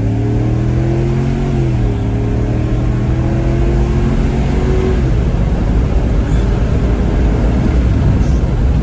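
2004 Ford Explorer's 4.6-litre V8 exhaust through a Cherry Bomb glasspack muffler, accelerating. The pitch climbs, drops at a gear change about two seconds in, climbs again, then falls back to a steady drone about five seconds in.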